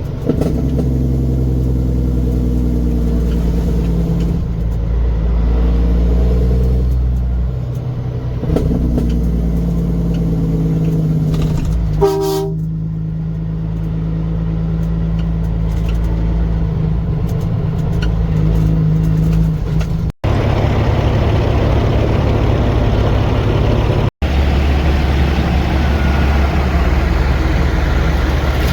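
Heavy truck engines running with a deep, steady drone, and a short horn blast about 12 seconds in. The sound breaks off abruptly twice, near 20 and 24 seconds, and is followed by a rougher engine rumble.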